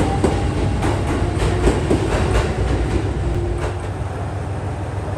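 Setsugekka diesel railcar running on the rails: a steady low rumble with irregular clicks and knocks of the wheels over the track, the clicks thinning out about four seconds in.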